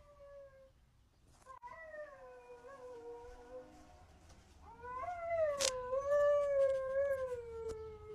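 Husky howling: two long, drawn-out howls, the second louder, each rising briefly and then sliding slowly down in pitch. A sharp click comes during the second howl.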